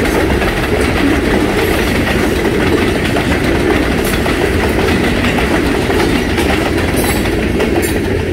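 Freight train's covered hopper cars rolling past: a steady rumble of steel wheels on rail, with a few sharp clacks as wheels cross rail joints.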